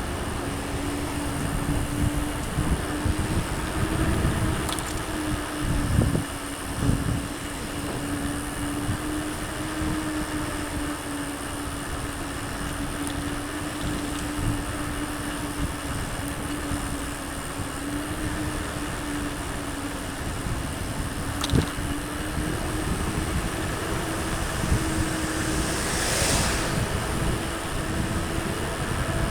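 Mountain bike riding on a trail: steady wind noise on the microphone and tyre rumble, with a few thumps from bumps, over a steady, slightly wavering hum.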